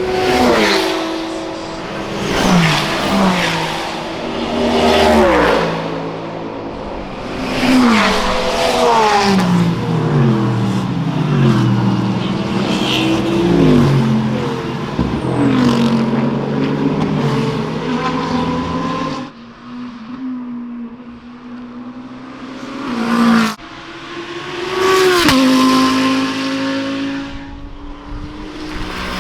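GT3 race cars going by one after another at racing speed. Each engine note drops in pitch and steps down as it passes, and the sound cuts off abruptly about 19 seconds in and again near 23 seconds.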